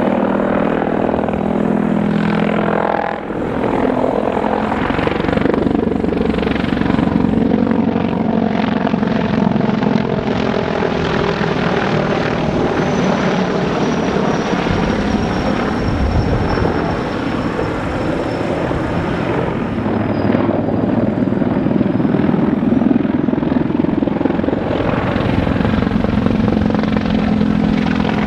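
Helicopter in a flying display: loud, continuous rotor chop and turbine engine noise, with a faint high whine that slowly falls in pitch midway through.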